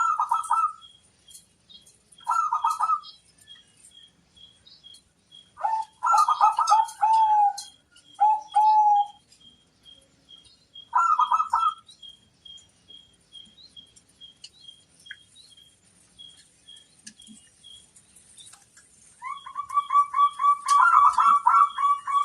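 Zebra dove (perkutut) cooing in short bursts of quick rolling notes, five brief phrases with pauses between them and a longer run of notes starting near the end. A faint high tick repeats about twice a second behind the song.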